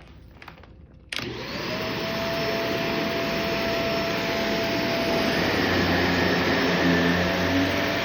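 Vacuum cleaner switched on about a second in, its motor spinning up with a rising whine and then running loud and steady.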